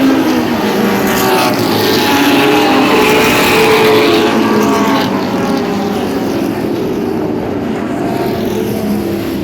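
Racing cars at speed on a circuit, engines running hard with pitch rising and falling as they pass. Loudest about three to four seconds in, then fading.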